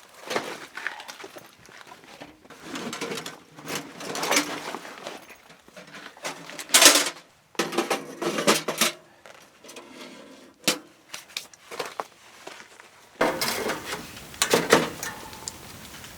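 Camp gear being handled: scattered clinks, knocks and rustles, with the sharpest knock about seven seconds in.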